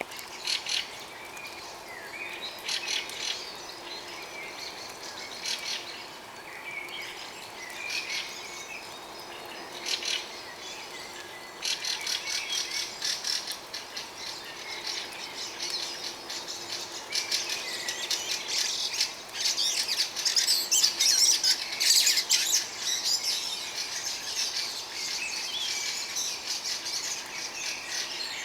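A dawn chorus of many birds calling and singing at once, with chirps, trills and squawks overlapping; it grows busier and louder about twelve seconds in.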